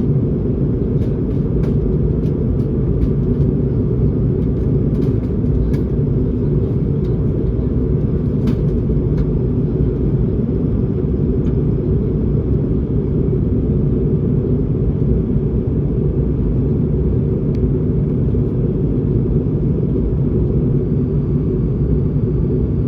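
Steady low rumble of engine and airflow noise inside the cabin of an Airbus A220-300 airliner, with a few faint ticks in the first several seconds.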